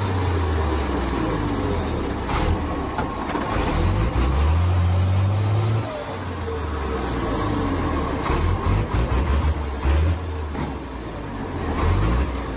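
Heavy truck engine running under load, its pitch rising and falling as it revs and eases off, with scattered clunks.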